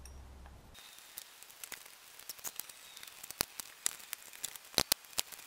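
Irregular light clicks and taps of tools and small plastic and metal parts being handled while a chainsaw is taken apart, with a few sharper knocks in the second half.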